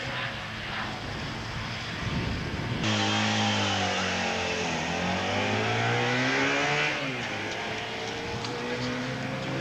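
Motorcycle engine passing on a race track. About three seconds in, a louder engine note comes in, falls in pitch, then climbs again as the bike pulls away, fading out near the seven-second mark over a steady background engine hum.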